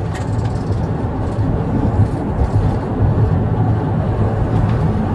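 Police patrol car driving along, a steady low engine and road rumble heard from inside the cabin.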